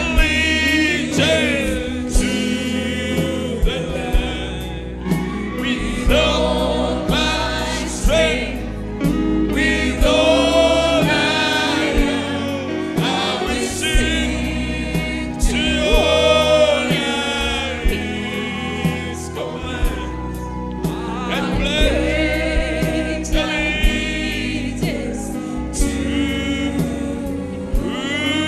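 Gospel choir singing with vibrato over a bass line and regular percussion hits.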